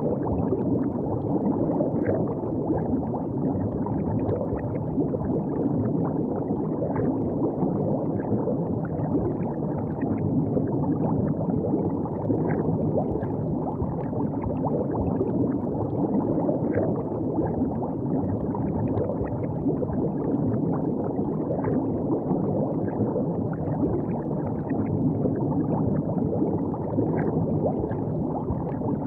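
River water gurgling steadily along the bank, a constant low rush with small scattered splashes and drips.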